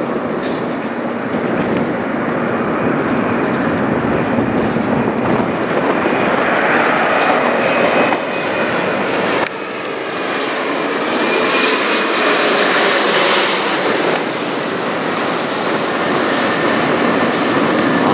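Mitsubishi CRJ900LR regional jet flying over, its two rear-mounted GE CF34 turbofans making loud, steady jet noise, with a high engine whine that builds and is strongest about twelve seconds in.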